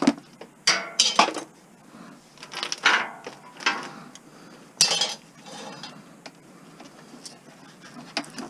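Christmas light strand being stripped by hand for scrap: plastic bulb sockets and wire clicking, clinking and scraping in irregular short bursts as the sockets are worked off the wire. The plastic is cold-stiffened and hard to get off.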